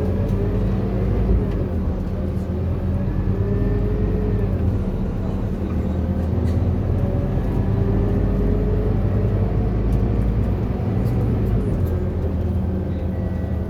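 Scania K230UB city bus's diesel engine running under way: a steady low drone with a fainter whine that slowly rises and falls in pitch as the bus changes speed.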